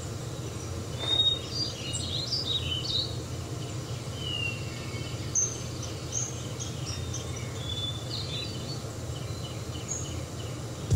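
Birds chirping: scattered short chirps and whistles, over a steady low hum.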